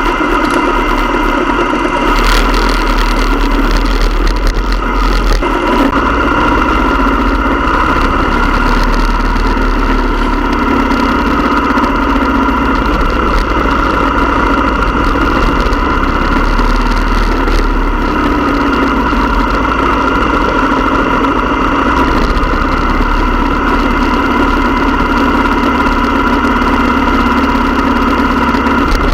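Motorcycle engine running steadily for the whole stretch, a continuous loud drone with a low rumble and no sharp changes in pitch.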